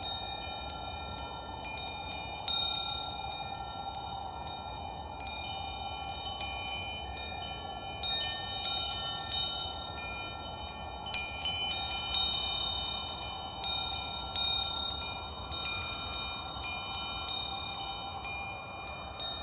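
Metal wind chimes ringing, struck at irregular moments with many overlapping high tones that ring on, over a steady soft hiss; the strongest strike comes a little past the middle.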